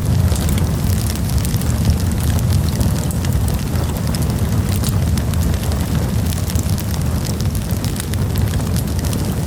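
Wood campfire burning with a steady low rumble and frequent small crackles and pops.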